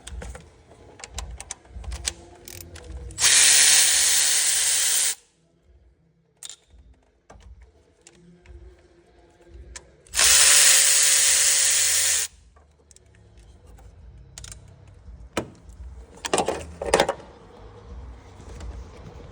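A power tool runs in two bursts of about two seconds each, several seconds apart, starting and stopping abruptly. Scattered clicks and knocks of tools on the engine fall between them, with two sharper knocks near the end.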